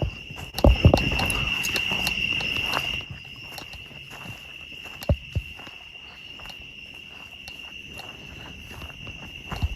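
Steady high-pitched trilling chorus of night insects in the woods. Footsteps and rustling on the trail, heaviest for a couple of seconds near the start, then a few single steps around five seconds in and near the end.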